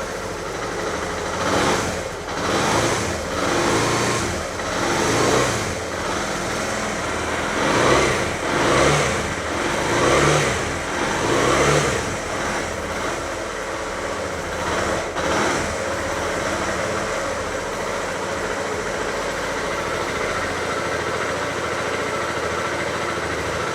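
2007 Suzuki Van Van 125's single-cylinder four-stroke engine running just after start-up, revved in a string of about nine throttle blips over the first fifteen seconds, then idling steadily.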